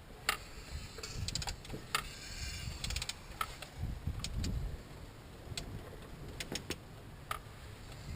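Scattered sharp metallic clicks and clinks, some in quick clusters, with a few low thumps: hand tools working on a rebuilt engine as it is turned over by hand to line up the timing-chain marks.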